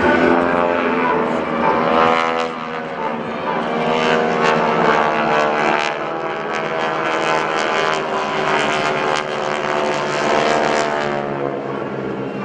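A formation of North American SNJ-2 trainers flying past, their 600-horsepower Pratt & Whitney radial engines and propellers droning together. The pitch slides as the planes go by.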